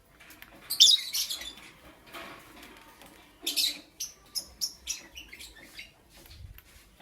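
Lovebird chirping: sharp, high chirps in quick runs, loudest about a second in and again around three and a half seconds, followed by a string of shorter chirps.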